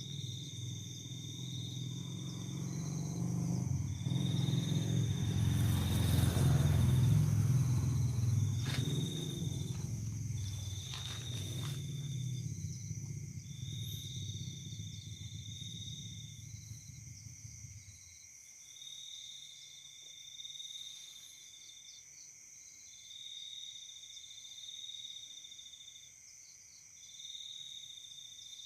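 Night insects calling: a high buzz that pulses on and off in trains of a second or two, over a steady higher-pitched drone. Under them a low rumble swells and then fades away about two-thirds of the way through.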